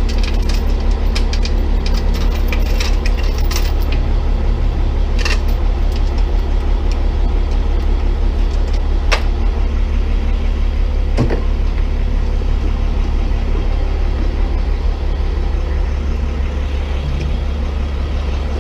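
Tow truck engine idling steadily, with scattered light metal clinks in the first few seconds and a few sharper knocks later, from a chain being taken off the crusher rig.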